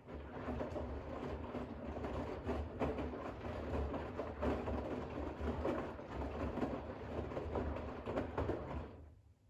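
Bosch WAX32GH1 front-loading washing machine drum turning during a rinse, wet towels and water sloshing over a low motor hum; the tumble starts at once and stops about nine seconds in.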